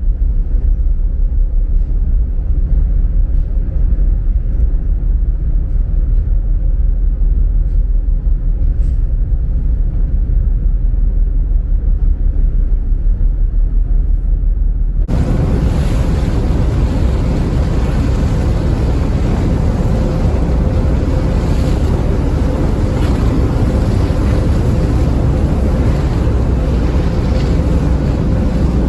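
Ferry Taiko underway: the ship's engines give a steady low rumble. About halfway the sound switches abruptly to a louder, fuller rush of wind and water over the rumble, with a faint steady hum.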